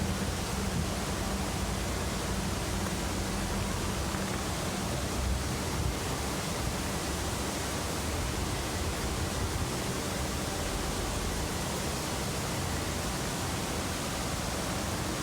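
Steady rush of falling water, an even hiss and roar that stays unchanged throughout.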